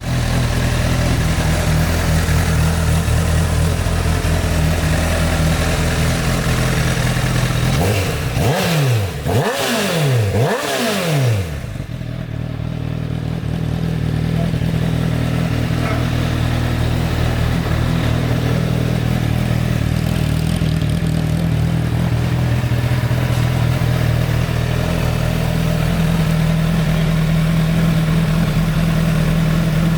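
Honda Fireblade SP's inline-four engine idling steadily, blipped three times in quick succession about a third of the way in, each rev rising and falling back, then settling back to idle.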